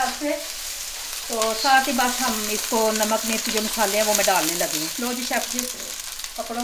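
Chopped onion and garlic sizzling in hot oil in a nonstick wok, stirred with a spatula, with cauliflower deep-frying in a second pan alongside. A voice talks over the frying for most of it.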